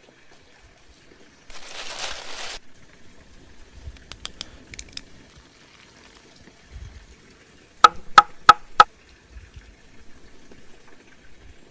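Cooking sounds: a short pour or splash of liquid about a second and a half in, a few light clicks, then four sharp ringing knocks in quick succession past the middle.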